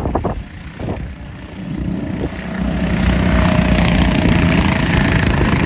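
Go-kart engines droning as karts run past on the track, growing louder about two to three seconds in and holding.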